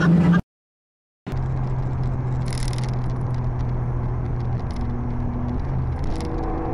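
Nissan Skyline engine heard from inside the cabin, a steady drone over road and wind noise. It comes in after a second of silence, changes note about four and a half seconds in, and higher notes join near the end.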